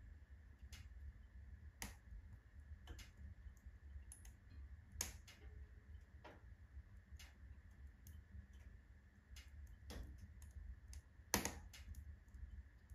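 Wood fire crackling in a wood-burning stove: faint, irregular pops and snaps, one or two a second, with a sharper pop a little over two-thirds of the way through, over a low steady rumble.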